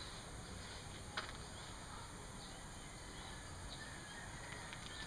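Faint outdoor background with scattered small bird chirps and a single sharp click about a second in.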